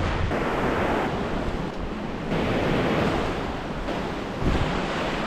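Small waves washing onto a shore, the surf noise swelling and ebbing, with wind buffeting the microphone.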